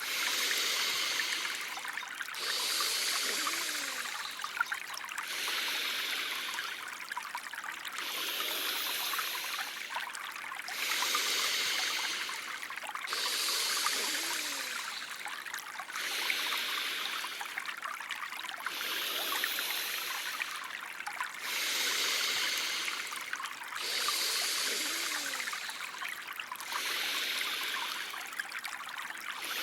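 Steady trickling water, with a breathing sound effect of slow, even breaths through the nose, one drawn-out breath about every two and a half to three seconds, paced for alternate-nostril (Anulom Vilom) breathing.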